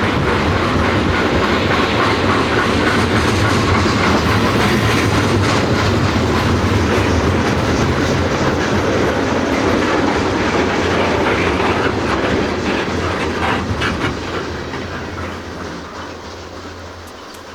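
Train rolling past close by, its steel wheels clattering over the rail joints; the sound fades away over the last several seconds as the train moves off.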